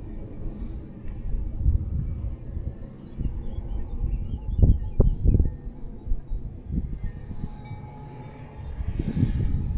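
Wind buffeting the microphone in uneven gusts, strongest about halfway through, over a steady high-pitched chirring of insects such as crickets.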